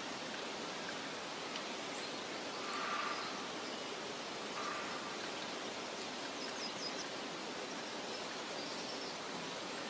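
Outdoor meadow ambience: a steady, even hiss with a few faint, high bird chirps, including a quick run of them about seven seconds in.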